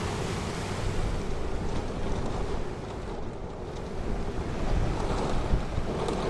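Ocean surf washing onto the shore with wind rumbling on the microphone; the wash eases about halfway through, then swells up again.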